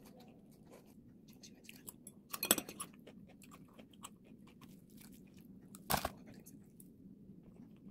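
Crispy fried chicken being bitten and chewed close to the microphone: two loud crackling crunches, about two and a half seconds in and about six seconds in, between quieter chewing clicks.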